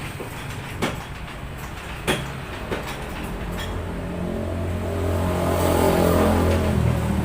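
A few sharp metal knocks, then a motor vehicle engine hum that grows louder through the second half and eases off near the end.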